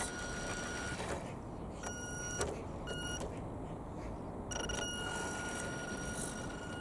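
Electric motor and speed controller of a radio-controlled Tamiya Mini car whining at one steady high pitch, switching on and off in several bursts as the throttle is worked, the longest near the end.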